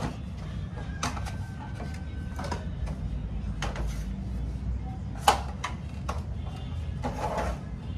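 Scattered clicks and knocks, the loudest about five seconds in, over a steady low hum.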